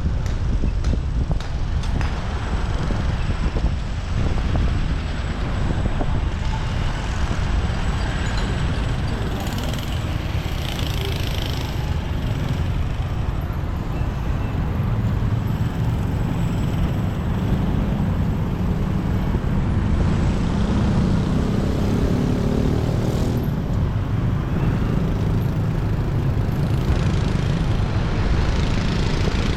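Motorcycle engine running steadily while riding, with a continuous low rumble and surrounding street traffic noise.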